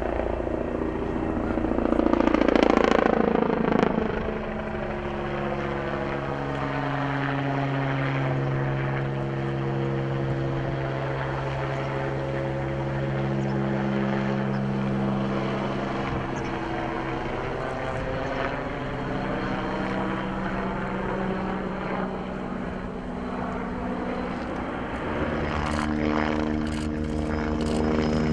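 Helicopter flying past, a steady drone of rotor and turbine tones that swells loudest about three seconds in and then holds, with the sound sweeping as it moves. A few sharp clicks near the end.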